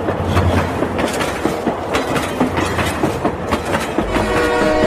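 Battery-powered toy train running on plastic track, its wheels clicking and rattling over the track joints. About four seconds in, a steady horn-like tone of several pitches comes in.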